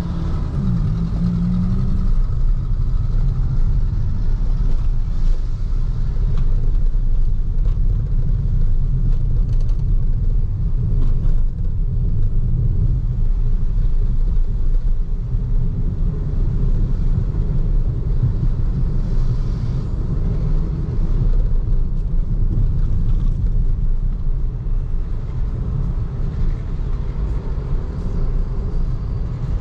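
Steady low rumble of tyres and road noise from a BYD Seagull electric car driving on a city road. It has no engine note, since the car is electric.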